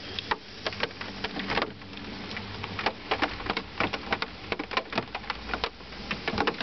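Raindrops hitting a velomobile's hard shell and windscreen: many sharp, irregular clicks over a steady low hum.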